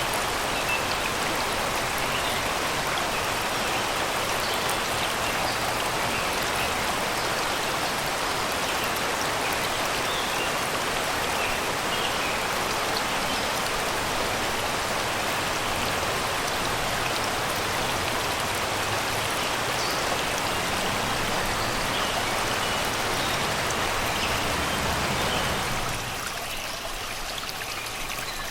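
Shallow river rushing steadily over rocks and stones, with faint birdsong chirping in the background. Near the end the water sound drops a little and loses some of its low rumble.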